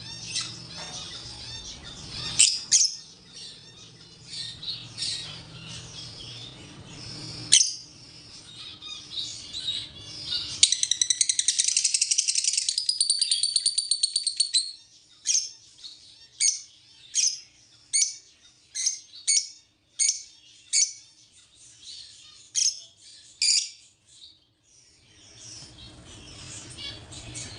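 Small pet birds chirping and squawking. In the middle comes a rapid buzzy chatter lasting about four seconds, followed by a run of short sharp calls a little under a second apart.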